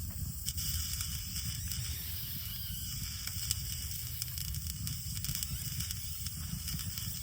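Campfire crackling and hissing, with many small sharp pops over a steady low rumble.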